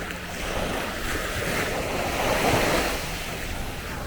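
Sea waves breaking and washing up the shore, one wave swelling louder about halfway through and then falling back. Wind rumbles on the microphone underneath.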